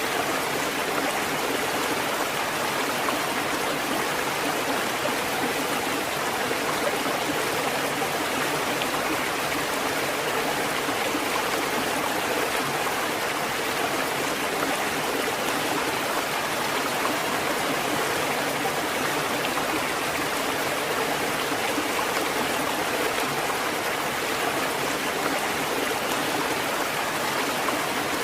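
Water fountain running: a steady, even rush of falling and splashing water with no breaks.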